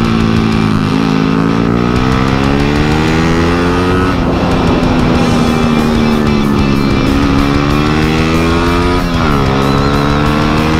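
Motorcycle engine running hard on a race track, its pitch climbing under throttle and dropping sharply about four and nine seconds in. Music plays along with it.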